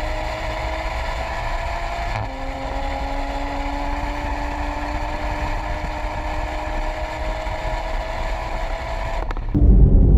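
2020 Toyota Supra's turbocharged 3.0-litre inline-six pulling hard under full throttle, heard at the tail of the car. Its pitch climbs steadily, drops once with an upshift about two seconds in, then climbs again. Just before the end it cuts to a louder, deeper rumble.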